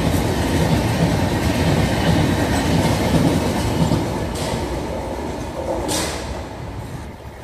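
Passenger coaches of an express train rolling past at speed, their wheels rumbling and clattering over the rails. The sound fades from about four seconds in as the last coach goes by and the train draws away.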